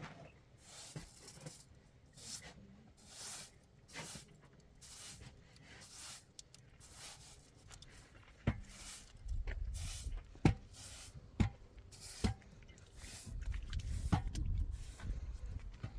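Footsteps crunching through snow, a regular step about once a second. A few sharp knocks come in the second half, over a low rumble.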